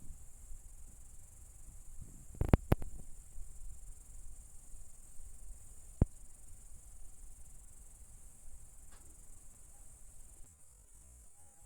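Crickets chirring steadily at a high pitch. A quick cluster of sharp clicks or knocks comes about two and a half seconds in, and a single sharp click about six seconds in.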